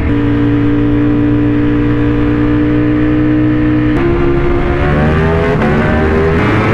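A motorcycle engine running at high revs with a steady note for about four seconds. The note then shifts and climbs steadily as the engine revs up.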